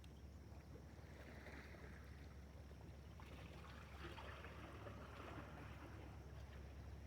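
Faint water splashing and lapping, coming and going, over a steady low rumble.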